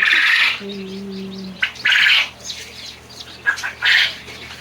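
Newly hatched chicken chicks cheeping loudly, in bursts near the start, about two seconds in and again near four seconds in, with fainter peeps between.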